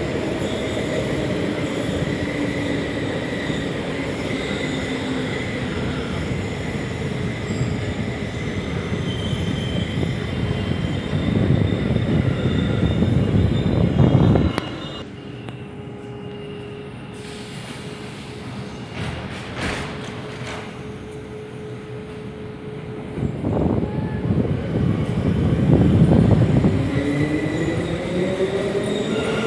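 Interior running noise of a class 472 S-Bahn electric multiple unit: wheels rumbling on the rails with high steady squealing tones. About halfway through the noise cuts back suddenly to a quieter hum with one steady tone. Near the end it builds again, and a rising whine from the traction motors shows the train accelerating.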